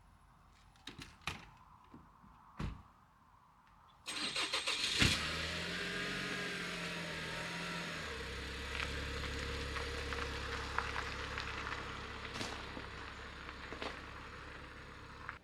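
A few clicks, then a car engine cranks and starts about four seconds in, settling within a few seconds into a steady idle that cuts off suddenly at the end.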